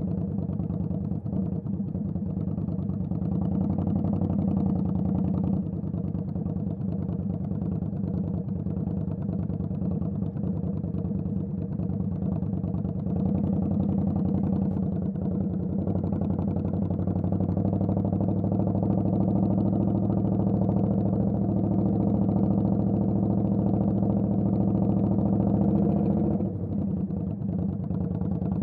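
Indian Scout Bobber's V-twin engine running steadily under way, with small changes in throttle. Its note drops sharply near the end as the throttle closes.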